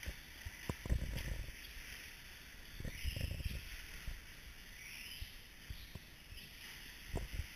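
Radio-controlled short course trucks running laps, their motors whining and rising and falling in pitch several times as they speed up and slow down, with low thuds throughout.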